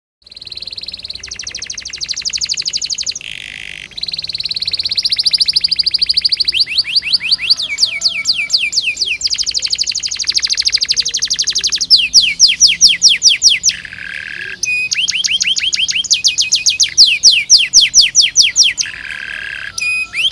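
Domestic canary singing a long, unbroken song of rolling trills: runs of rapid repeated notes, many falling quickly in pitch, each run switching to a new note type every second or two.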